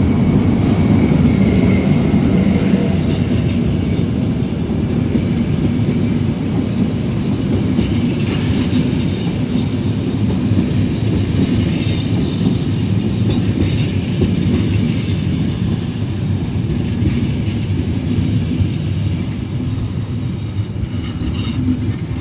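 Passenger train rolling into the station along the platform: a steady heavy rumble of wheels on rail with occasional clacks over rail joints, slowly fading toward the end.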